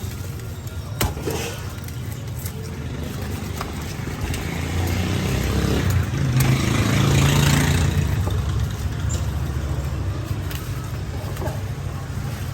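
A motor vehicle's engine running close by over a steady low rumble, growing louder a little before halfway through and then easing off, with a few sharp knocks.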